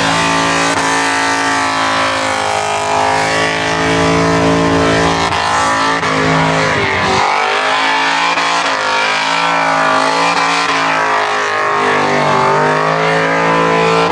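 Holden VY Commodore SS's V8 held at high revs through a burnout, its rear tyres spinning and smoking. The engine note wavers up and down the whole time, with a brief dip in revs about halfway.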